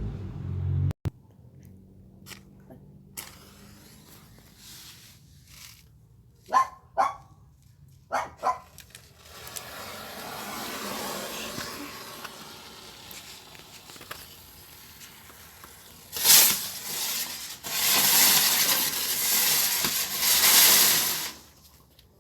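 A dog barks about four times in two quick pairs, and later a loud rushing hiss runs for several seconds before cutting off.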